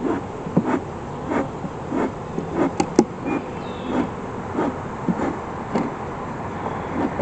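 Honeybees buzzing around an open hive, with a regular series of short knocks or scrapes, roughly three every two seconds, from the beekeeper's work on the hive.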